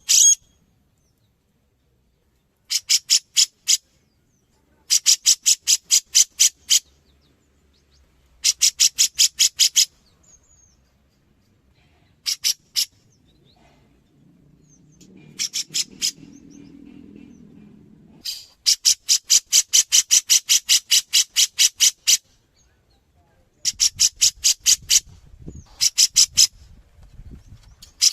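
Grey-cheeked bulbul (cucak jenggot) calling in repeated bursts of rapid, evenly spaced harsh chattering notes, about six a second, each burst one to three seconds long with short pauses between.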